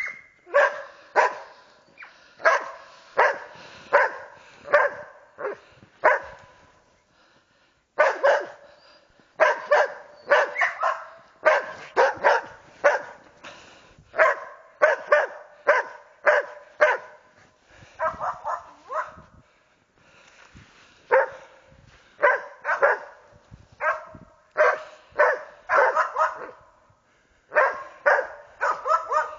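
West Siberian Laikas barking in a long run of sharp barks, about one to two a second, broken by short pauses: hunting dogs barking at a marten.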